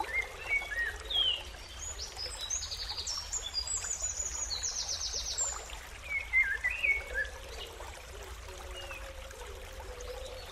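Several birds chirping and calling, with rapid high-pitched trills from about two to five seconds in, over a steady background hiss.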